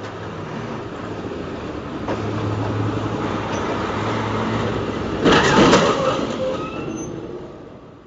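A train passing close by: a steady rumble with a low hum that swells and then fades, with a loud burst of noise lasting under a second about five seconds in.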